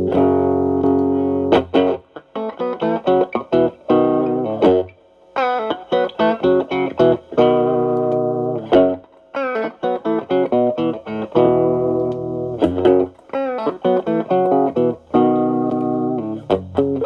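Stratocaster electric guitar played through the Xotic AC Plus overdrive pedal, with Channel B as the main drive and Channel A stacked as a gain boost at full volume, into a Marshall Valvestate amp. It plays overdriven licks and chords in phrases separated by short pauses.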